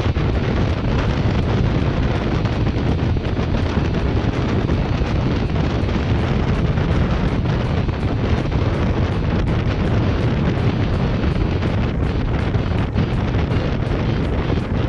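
Heavy wind buffeting on the microphone of a tritoon boat running at speed, a loud steady rush that masks the outboard and the water noise beneath it.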